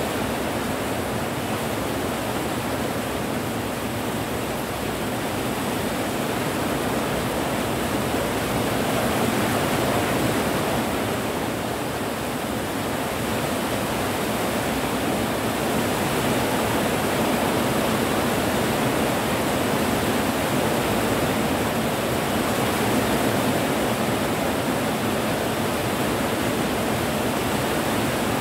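Steady rain falling: an even, continuous hiss with slow, gentle swells in loudness.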